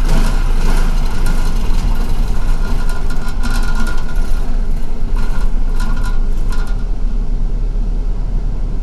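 MTA city bus heard from inside: a steady low engine and road rumble with frequent short clicks and rattles, easing off a little near the end.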